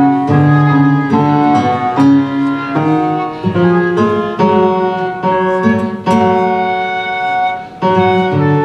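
A small instrumental ensemble playing Baroque music live, several melodic lines moving together with bowed strings prominent; the sound briefly drops off near the end before the next phrase.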